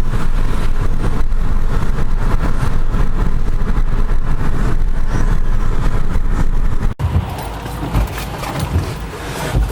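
A car driving, with steady engine and tyre noise on a saturated wet road. The sound cuts off abruptly about seven seconds in, and a quieter, patchier sound follows.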